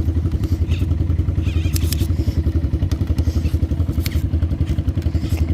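Pit bike's single-cylinder engine idling steadily with a fast, even throb, its idle just bumped up during tuning. A couple of light clicks come over it.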